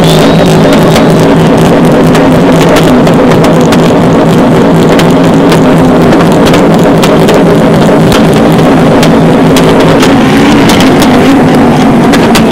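Car engine running loudly at fairly steady revs, with many sharp pops over it.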